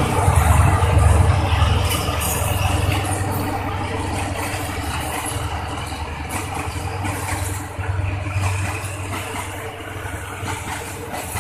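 A diesel locomotive's engine running as it hauls a passenger train away, a deep low rumble loudest at first and fading over the first few seconds. The quieter rolling rumble of the passenger coaches passing on the rails follows.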